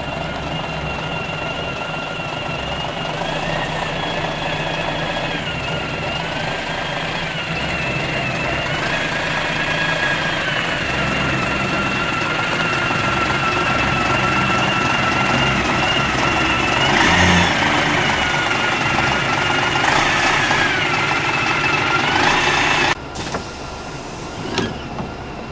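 Diesel engine of a Scania CR112 bus running as the bus moves, with a high whine that steps up and down in pitch several times. Near the end the sound drops away suddenly.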